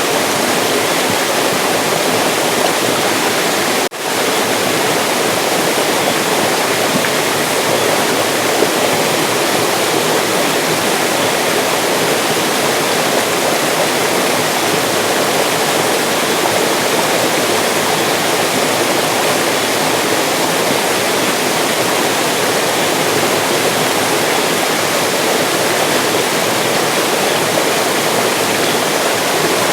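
Steady rushing and splashing of a mountain stream's flowing water. It drops out for a split second about four seconds in.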